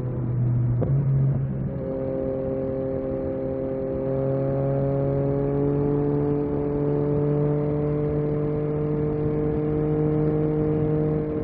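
Yamaha MT-09 SP's three-cylinder engine running under way. There is a short blip with a jump in pitch about a second in, then the pitch rises slowly as the bike gathers speed.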